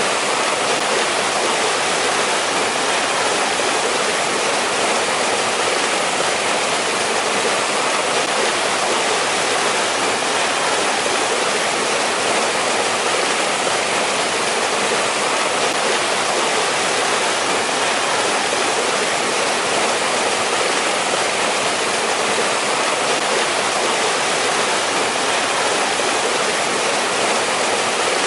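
Mountain stream flowing and splashing over rocks in a valley, a steady rush of water that does not change.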